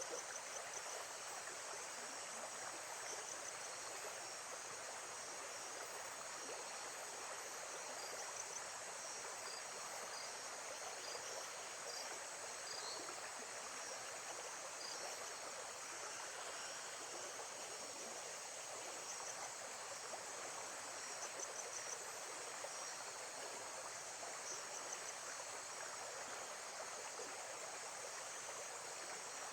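Lakeside nature ambience: a steady wash of water, with insects chirping thin and high above it.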